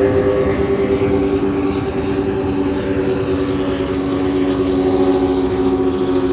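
Offshore racing powerboat engines running at speed, a loud steady drone whose pitch sags slightly midway.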